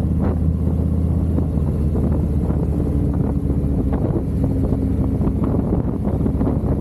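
Harley-Davidson V-twin engine running under way, a steady note that shifts slightly in pitch, with wind buffeting the microphone.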